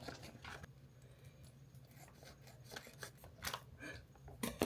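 Quiet food-prep handling of a ravioli bake kit's packaging: scattered light clicks and scrapes, with a couple of sharper clicks near the end.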